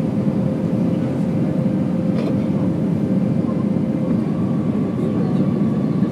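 Steady jet engine noise heard inside an airliner cabin during takeoff, a dense low rumble with a thin whine. About two-thirds of the way through, a higher whine joins it.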